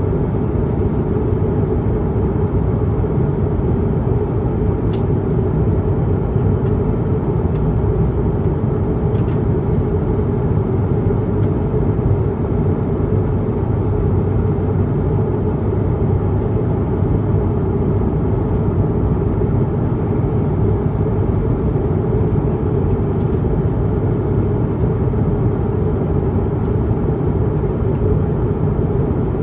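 Steady cabin roar of an Airbus A220-300 in flight: engine and airflow noise heard from a window seat inside the cabin, deep and even, with a faint high whine and a few soft ticks.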